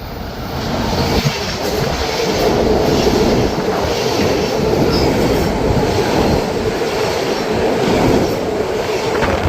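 A Metro-North commuter train going by on the rails, its noise building over about the first second and then holding loud and steady.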